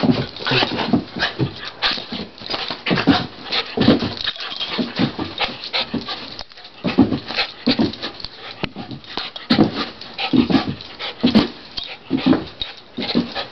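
A cockapoo making short, irregular sounds, some of them pitched, over and over while playing with a rawhide.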